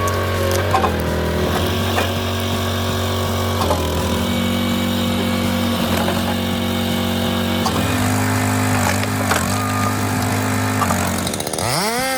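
A small engine running steadily under load, with a few short knocks. Near the end a motor revs up sharply and holds a high pitch.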